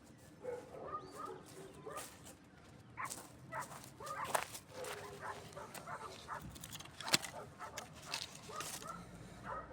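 Campfire crackling, with sharp pops, the loudest about seven seconds in, over short pitched calls in the background.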